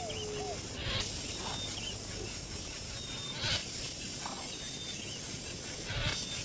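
Outdoor nature ambience: a steady high hiss with small bird chirps, cut by three short harsh rasps roughly two and a half seconds apart.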